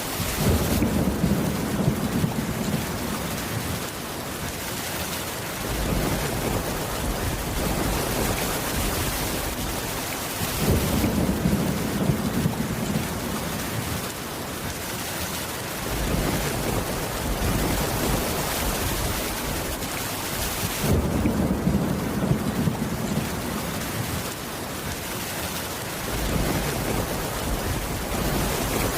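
Steady rain with low rolls of thunder that come in three times, about ten seconds apart.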